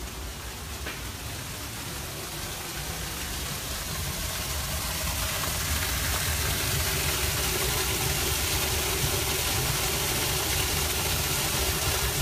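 Steady rushing noise, gradually growing louder.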